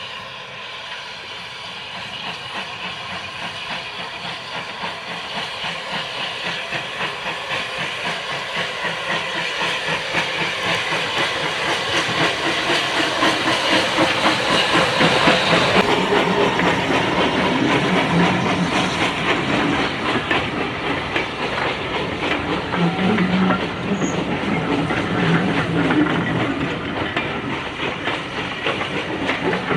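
Steam tank locomotive working a train, its exhaust beats and steam hiss growing steadily louder over about fifteen seconds as it draws near, then staying loud as it runs close by.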